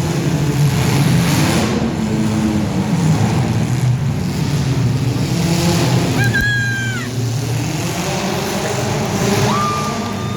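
Demolition-derby compact car engines revving and varying in pitch. There is a thump with a short high tone about six and a half seconds in, and another high tone near the end.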